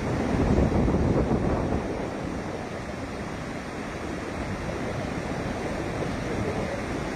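Water released from a dam rushing out in a steady torrent. It is a little louder in the first couple of seconds.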